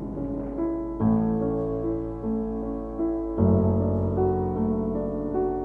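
Background piano music: slow, sustained chords with new notes struck about a second in and again a little past the middle.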